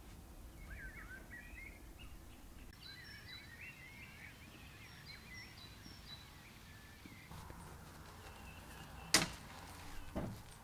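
A small bird singing in quick, warbling twittering phrases for several seconds. About nine seconds in there is a sharp knock, the loudest sound, followed by a smaller knock a second later.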